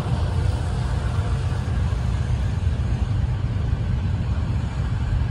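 Autorack freight cars rolling past on the rails, a steady low rumble of wheels and trucks with no engine note.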